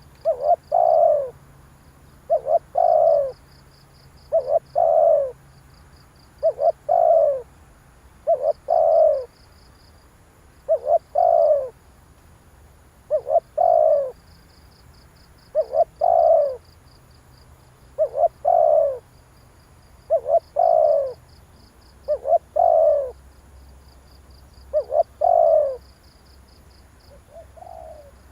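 Spotted dove cooing: a short phrase of two or three deep notes, repeated about every two seconds. Faint rapid high chirping runs underneath.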